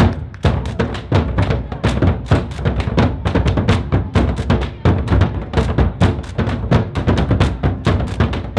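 Music driven by drums and percussion, a fast, steady beat of many strikes a second over sustained pitched instruments.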